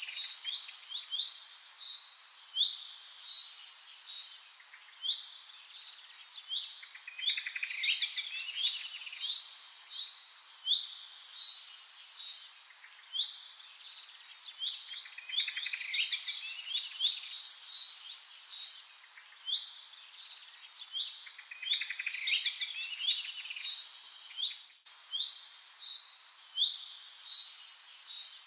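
Small birds chirping and singing in quick, high, trilling phrases that come in bursts a few seconds long.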